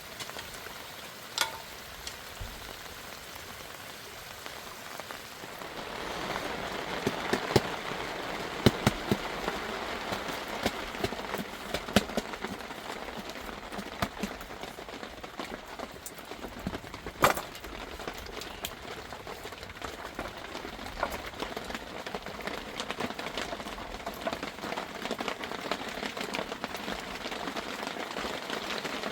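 Rain falling steadily, growing heavier about six seconds in, with scattered sharp taps of drops striking a surface.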